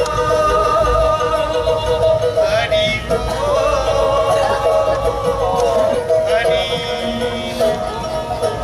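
Live music: a singer's voice rising and falling in pitch over steady held tones from an accompanying instrument.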